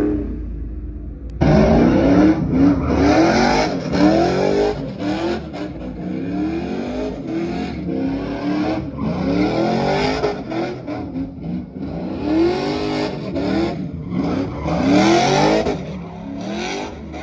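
Pickup truck doing a burnout: the engine is revved hard over and over, its pitch rising and falling about once a second, over the hiss of spinning tires. It jumps in loudness suddenly about a second and a half in.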